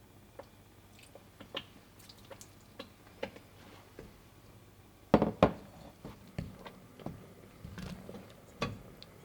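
Kitchen utensils and dishes being handled: scattered light taps and clicks, with two louder knocks close together about five seconds in.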